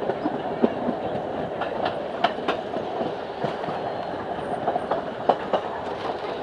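Passenger train running along the track, heard from inside a moving coach: a steady rumble of wheels on rail with irregular sharp clicks and knocks from the wheels passing over the rails.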